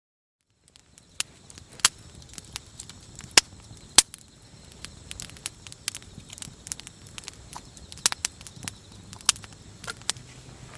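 Wood campfire crackling, with sharp irregular pops over a low hiss; it starts abruptly just under a second in.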